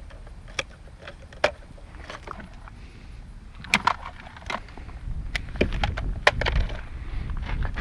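Scrap items being handled and set down: a string of sharp clanks and knocks, some in quick pairs, over a low rumble that grows louder about five seconds in.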